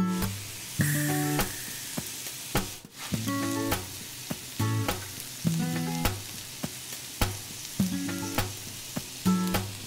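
Frying food sizzling with a steady hiss, under sparse plucked notes of background music about once a second, with a few light clicks.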